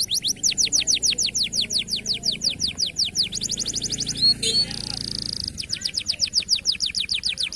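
Local canary singing: a fast series of repeated high notes, each sliding down in pitch, about six a second. Around the middle the series breaks into a short rapid trill and a brief steady buzzing note, then the falling notes resume.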